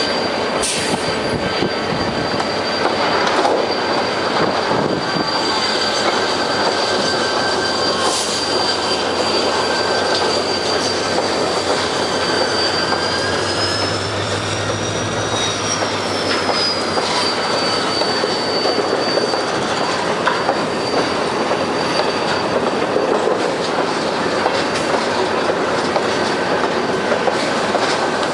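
Container freight train rolling past on steel rails, its wheels squealing with a high, steady whine that rises and falls in pitch around the middle, over continuous rumble and clatter of wheels on the track with a few sharp knocks.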